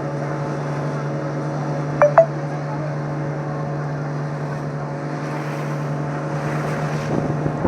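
Boat engine running at a steady, even drone, with two short clicks about two seconds in.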